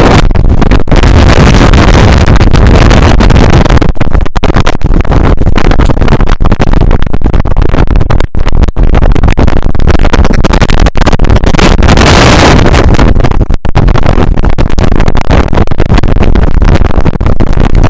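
Strong wind blasting the microphone, a loud rumbling roar that overloads it, broken by many brief sharp cut-outs.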